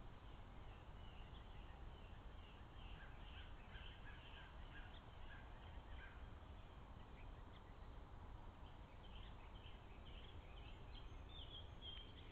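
Faint wild birds calling: a run of short, evenly spaced notes for a few seconds, with scattered higher chirps, over a steady low hiss.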